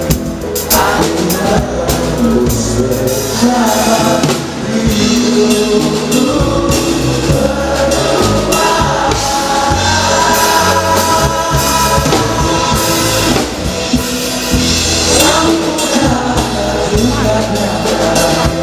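A band playing a song, with a singer's voice and drums.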